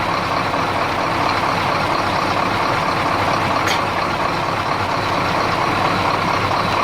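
Detroit Diesel 8.2 L V8 diesel engine, freshly top-overhauled, running steadily in the minutes after its first start. There is a brief high click about halfway through.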